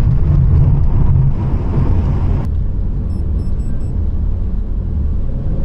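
Pontiac Firebird driving: a steady low engine drone with road noise. A higher hiss cuts away sharply about two and a half seconds in, leaving mostly the low drone.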